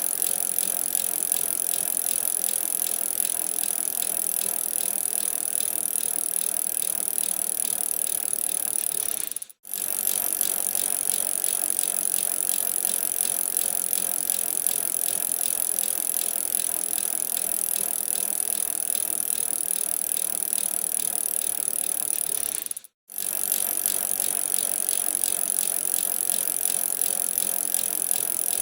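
Bicycle in motion: steady tyre and road noise with the frame and drivetrain rattling. The sound cuts out briefly twice.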